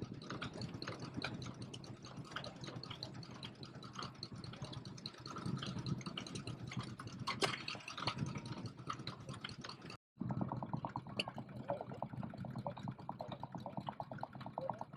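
Vintage stationary engines running, in two clips: first an irregular mechanical clatter, then, after an abrupt cut about ten seconds in, an engine with a fast, even beat.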